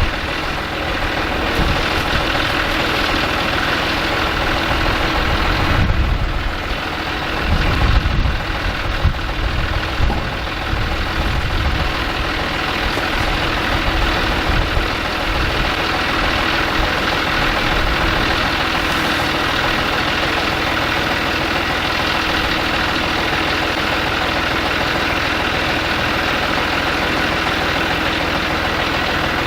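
A motor vehicle engine idling steadily, with heavier, uneven low rumbling from about six to eleven seconds in.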